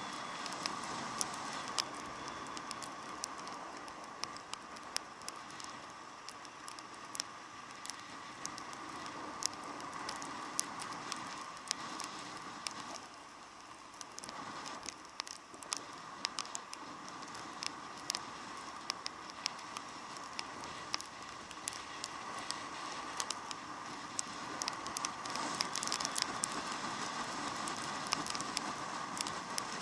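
Raindrops ticking irregularly on a motorcycle-mounted camera's housing, over a steady muffled hum of the motorcycle riding along a wet road.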